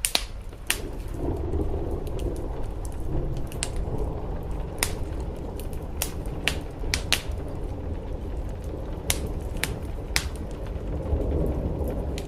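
Wood fire crackling, with sharp pops at irregular intervals, over a steady low wash of rain.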